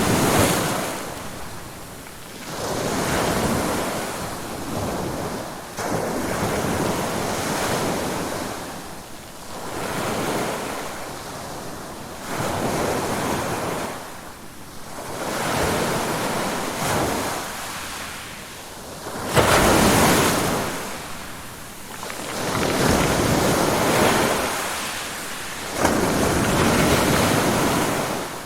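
Ocean waves breaking and washing on a shore, surging and fading in turn every few seconds, one wave a little louder about two-thirds of the way through.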